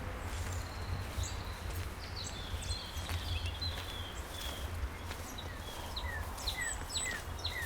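Small birds calling with short chirps, including a run of quick falling notes in the second half, over a steady low rumble of wind on the microphone.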